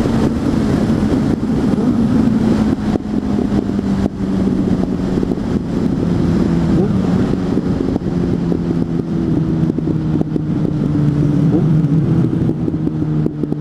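Suzuki GSF 600 Bandit's inline-four engine with an aftermarket exhaust, running under way, its pitch drifting slowly down as the bike eases off.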